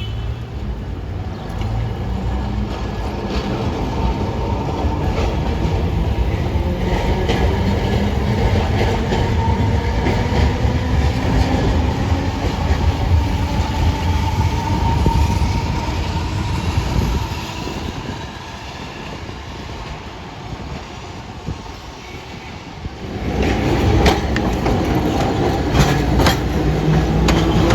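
Electric tram running on its rails: a steady rumble with a rising motor whine. About 17 seconds in it drops to a quieter passage, and it builds back up about 23 seconds in with wheels clicking over the rail joints.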